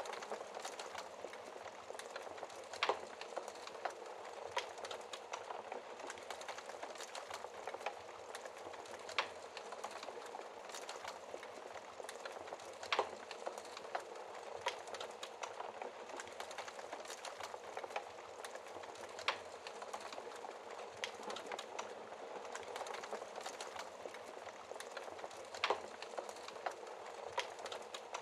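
Wood fire crackling in a fireplace: a steady hiss of burning with many small crackles and about five sharp, louder pops spaced a few seconds apart.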